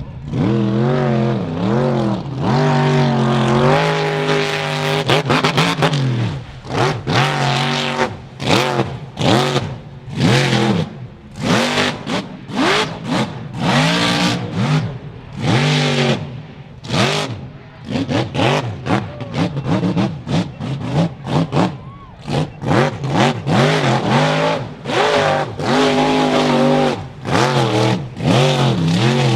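Mud truck engine revving hard up and down over and over, its pitch climbing and dropping about once a second.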